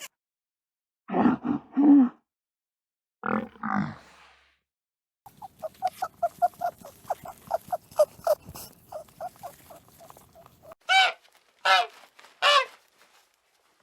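Domestic farm animal calls one after another: three low grunts, then a fast run of short calls at about four a second, then three loud, separate honk-like calls.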